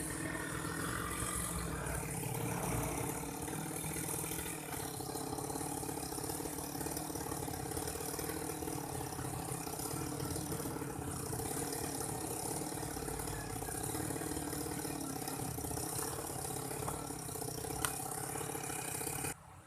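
Small engine of an old grass-cutting machine running steadily, stopping abruptly near the end.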